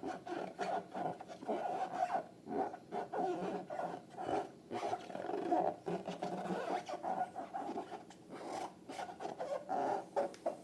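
Slime being worked by hand with rubber balloons: an irregular run of sticky squelches and crackly clicks over a rough rubbery squeaking.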